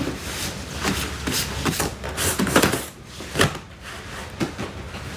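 Irregular light knocks and rubbing, a dozen or so short clicks spread unevenly, as objects are handled.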